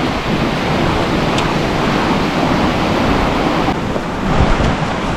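Rough, fast-flowing moorland river rushing over rocks, with gusting wind buffeting the microphone in a low rumble.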